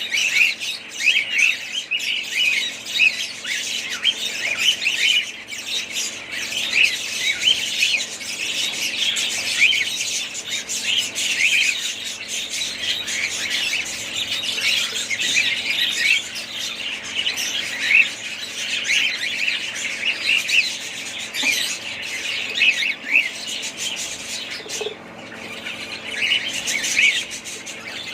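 A group of budgerigars chattering, a dense stream of many short, overlapping chirps and squawks.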